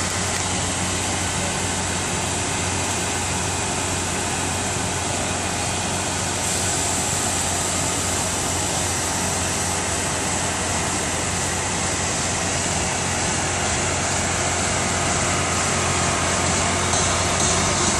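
Stretch Range Rover limousine idling: a steady low hum under an even rush of noise, unchanging throughout.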